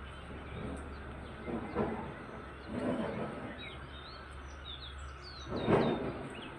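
Small birds chirping with short, quick notes that glide up and down, several at once in the second half. Three louder, lower sounds swell and fade under them, about one and a half seconds in, around three seconds, and near the end, the last being the loudest thing heard.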